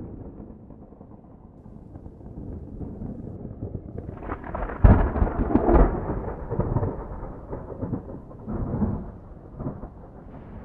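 Thunder rumbling, building to a loud crack about five seconds in, then rolling away in several smaller peaks.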